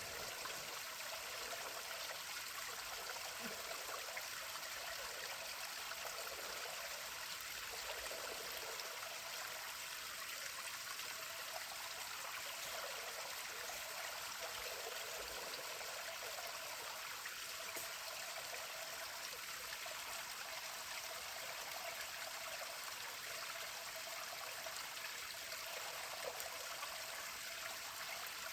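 Small waterfall on a mill stream: water running and splashing in an even, light rush that holds steady throughout.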